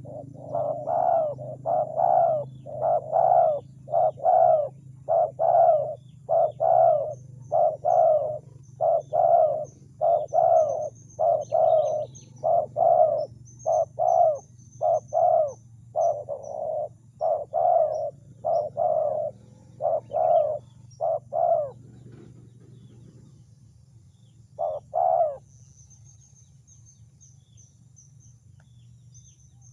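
Spotted dove cooing: repeated coos in short runs of two or three notes, about one phrase every second or two, stopping about 22 seconds in, with one last pair of coos near 25 seconds. Faint high chirps from small birds and a steady low hum lie underneath.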